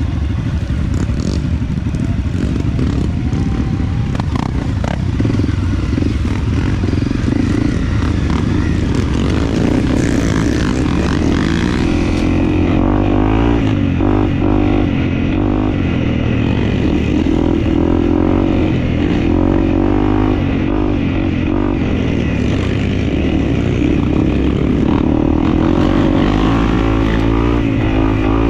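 Dirt bike engine running as the bike is ridden on a trail, the revs rising and falling continually with the throttle.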